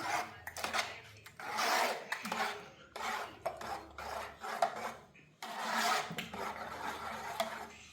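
A few long rasping scraping strokes, one after another.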